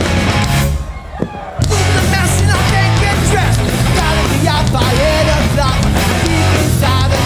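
A live hardcore punk band plays at full volume: distorted guitars, bass, drums and shouted vocals. The band cuts out briefly about a second in, then crashes back in.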